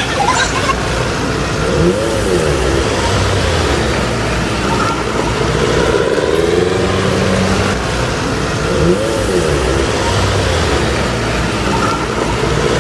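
Road traffic in a storm: motor vehicles pass on the street over a steady rushing noise, with an engine rising and falling in pitch about two seconds in and again about nine seconds in.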